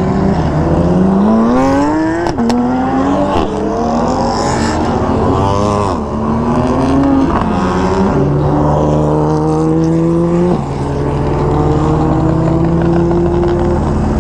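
A group of supercars passing and accelerating hard, several engines revving up through the gears at once, their pitch climbing and dropping sharply with each upshift.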